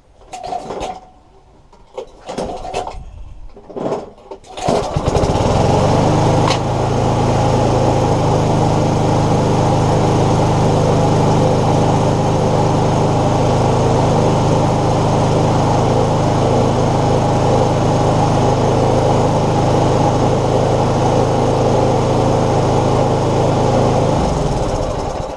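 Tecumseh lawn mower engine being pull-started: a few short handling noises, then the engine catches about five seconds in and runs loud and steady at an even speed, until it cuts out shortly before the end. It starts easily and runs evenly.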